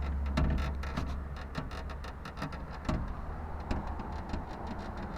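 Daewoo Nexia's right door window regulator creaking while driving: a run of irregular dry clicks and ticks, several a second, over the car's steady low road rumble.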